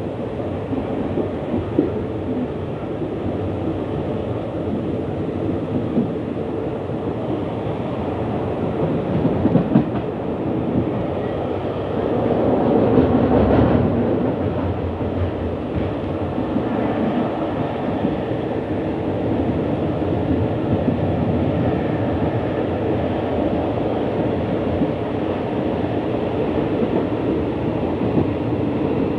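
Passenger train carriage running along the track, heard from an open window: a steady noise of wheels on rails, with a few sharp knocks about ten seconds in and a louder stretch a little before halfway.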